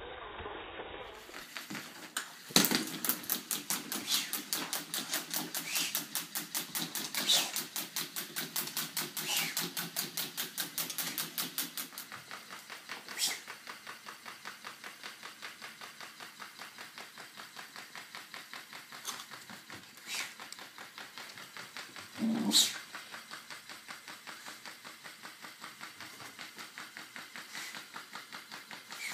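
Mechanical toy bird running with a steady clicking of about four clicks a second, louder along with a low hum for the first ten seconds or so, then fainter. A few louder short sounds break in over it, the loudest about three quarters of the way through.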